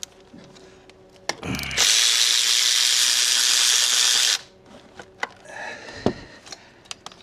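A power tool running on a bolt deep in the engine bay: a short spin-up, then a loud steady run of about two and a half seconds that cuts off suddenly. A sharp knock follows about six seconds in.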